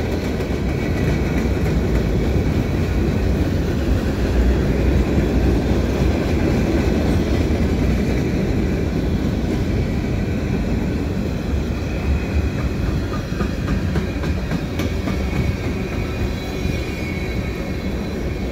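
Freight cars of a mixed freight train rolling past: a steady rumble of steel wheels on rail with occasional clicks. A faint wheel squeal comes near the end.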